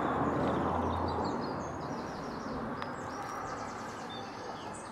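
Birds chirping over a steady rushing background noise that sets in suddenly and slowly fades.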